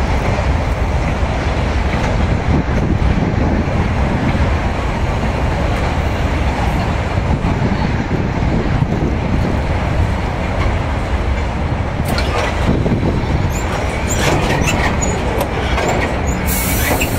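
Narrow-gauge passenger cars rolling slowly along the platform with a steady low rumble and wheel clatter. From about twelve seconds in, clicks and squeaks join, and a high-pitched wheel squeal starts near the end as the train slows into the station.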